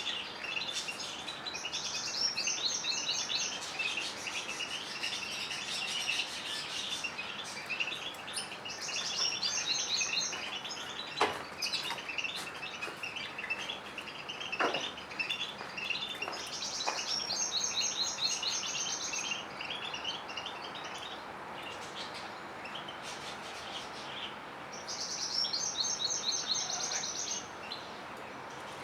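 Canaries and European goldfinches singing: continuous high twittering, with a rapid, bright trilled phrase repeating about every seven or eight seconds. There are a couple of sharp clicks near the middle.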